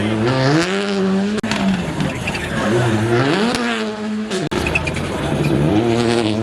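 Rally car engine revving hard: its pitch climbs and falls several times, with sharp breaks at the gearshifts about one and a half and four and a half seconds in, and rises again near the end.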